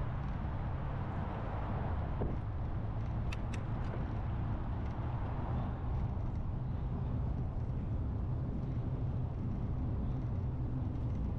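Steady low wind rumble on the microphone of a moving bicycle, with rolling road noise, and a few faint high ticks a little over three seconds in.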